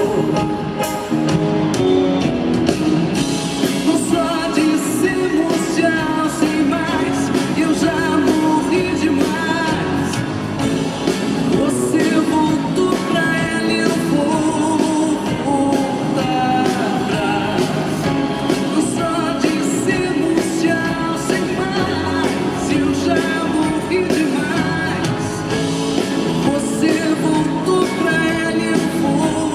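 Live band music with a woman singing, from a concert performance of a Brazilian pop song.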